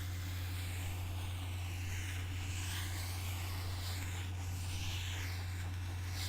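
Soft rubbing and scratching on an object for ASMR, swelling and fading every second or so, over a steady low hum.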